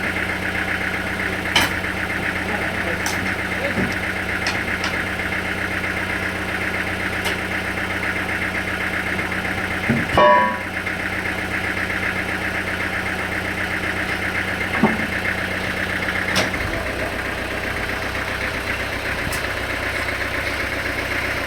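Sawmill machinery running steadily: a constant engine drone with a few light knocks. About halfway there is a brief louder sound, and about three quarters of the way through the low hum changes.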